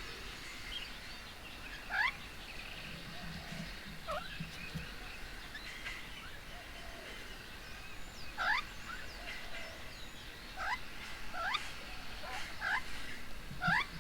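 Several birds calling around a garden bird table: repeated short, sharply rising notes at irregular intervals over a background of softer chattering.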